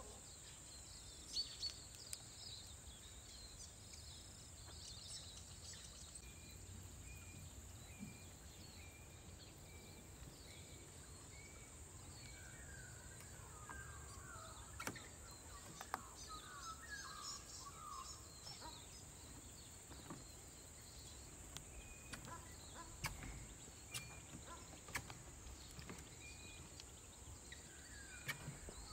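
Faint outdoor ambience of birds calling and chirping, with one bird repeating a short high note about once a second for several seconds, over a faint low rumble.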